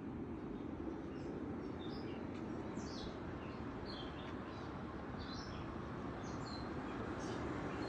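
Songbirds chirping: many short, high notes, some sliding downward, scattered through, over a steady low rumble in the background.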